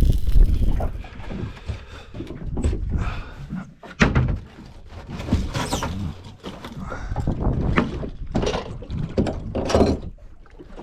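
Wind buffeting the microphone with a low rumble, and a series of knocks, thuds and clatters of gear being handled on a boat, the loudest a sharp thump about four seconds in.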